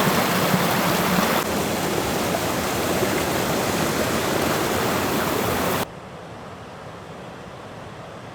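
Waterfall rushing, a loud, even noise of falling water that cuts off suddenly about six seconds in, leaving a much quieter steady hiss.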